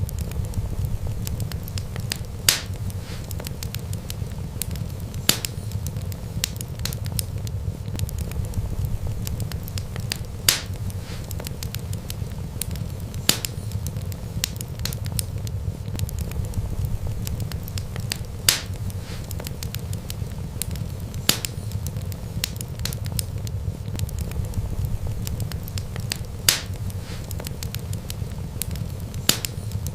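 Wood fire burning with a steady low rumble and sharp crackling pops, a loud one every few seconds.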